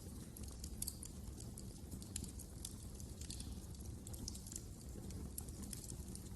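Wood fire burning in a fireplace: a low steady rumble of the flames with irregular sharp crackles and pops.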